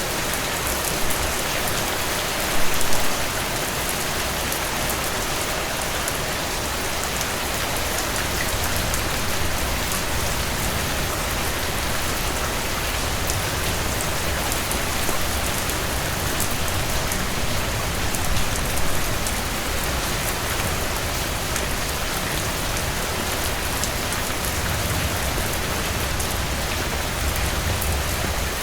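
Heavy rain falling steadily on a cabin roof and porch: an even hiss with scattered drop taps. A few brief louder pops stand out about three seconds in and again near nineteen seconds.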